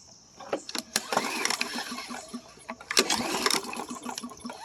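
Troy-Bilt walk-behind mower's recoil starter cord pulled twice, the engine turning over with a rapid ticking and the rope whirring, without firing, during a spark test with the spark plug out.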